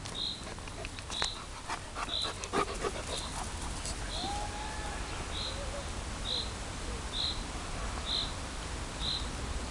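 A large dog running and panting on grass as it plays with a frisbee, with scuffs and knocks in the first few seconds. A bird's short high chirp repeats about once a second.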